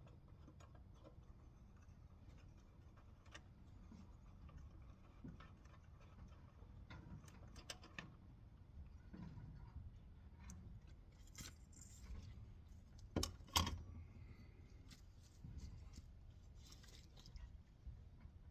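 Small metal clicks and taps of hand tools and carburetor parts being handled while a small-engine carburetor is taken apart, scattered and irregular, with a louder double knock a little past the middle.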